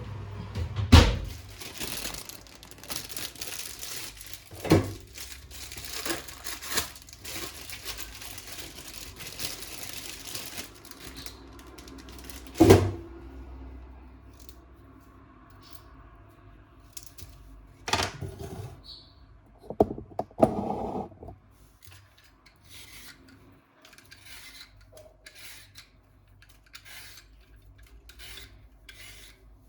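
Kitchen and household handling sounds: a run of rustling or tearing during the first third, then quieter scraping and rubbing. Several sharp knocks of objects being set down are spread through it, the loudest about a second in and again near the middle.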